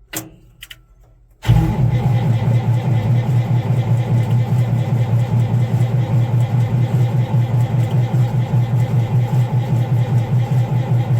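Starter motor engages about a second and a half in, after a few faint clicks, and cranks the Allis-Chalmers 200's six-cylinder diesel engine with a steady, fast, even pulse. The engine is turning over in sub-freezing cold without catching: a failed cold start.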